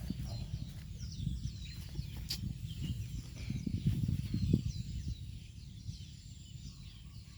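Birds chirping in many short, falling notes over a low rustling rumble that swells about four seconds in, with a single sharp click a little earlier.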